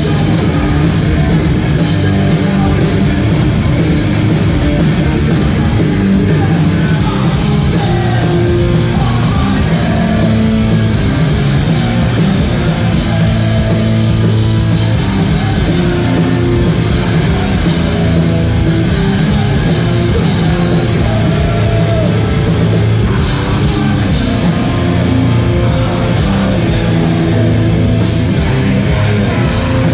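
Hardcore band playing live at full volume: heavy rock music with guitars, bass and drums.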